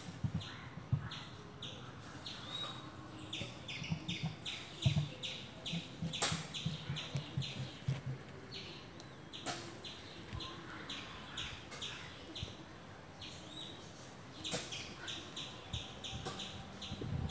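Small birds chirping over and over in quick short calls, about three or four a second, with bursts of low pulsing grunts in the first half and again near the end.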